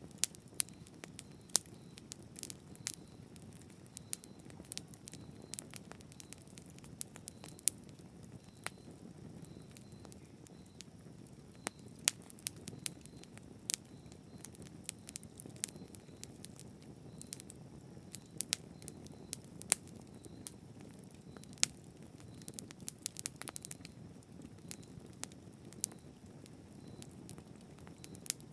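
Campfire burning: a steady low rush of flame with frequent sharp, irregular crackles and pops of burning wood.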